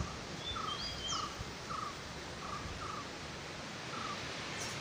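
Quiet outdoor ambience with a steady hiss. A bird repeats a short call about twice a second, and a few higher chirps that glide in pitch come from another bird about a second in.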